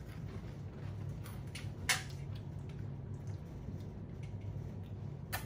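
Potato chips being chewed: a few faint crunches, the loudest about two seconds in and another near the end, over a steady low room hum.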